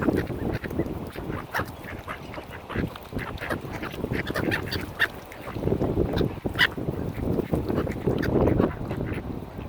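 Mallard ducks quacking in a continuous jumble of short calls, swelling about six seconds in and again near the end, with one brief sharper call about six and a half seconds in.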